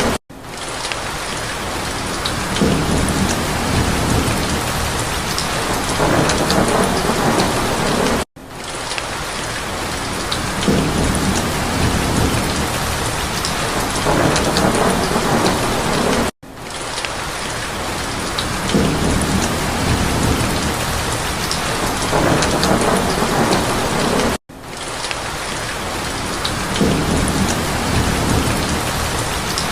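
Steady heavy rain with low rumbles of thunder. It is a short recording looped about every eight seconds: each repeat starts after a brief drop-out and fades back in.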